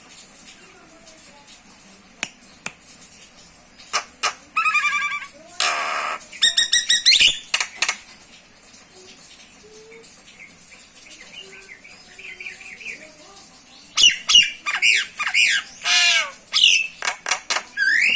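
Common myna calling: harsh squawks mixed with whistled, rising notes and rapid chattering, in two bursts, one about four seconds in and a longer one from about fourteen seconds to the end, with a quieter stretch between.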